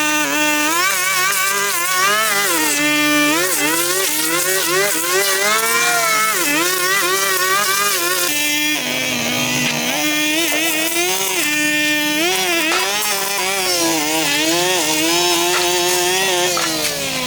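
Small two-stroke engine of a handheld yard power tool running at high speed, its pitch rising and falling continually as the throttle is worked and the load changes. About nine seconds in, the pitch drops and turns rough for about a second, as if bogging under load, then climbs back.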